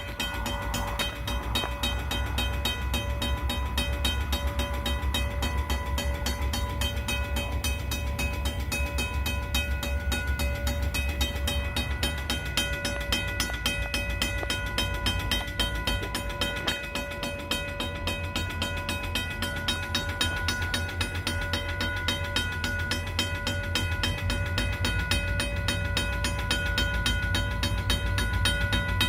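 EMD SD40-2 diesel-electric locomotives running, their two-stroke V16 engines making a steady low rumble with a constant whine above it. The rumble eases about twelve seconds in and builds again around eighteen seconds.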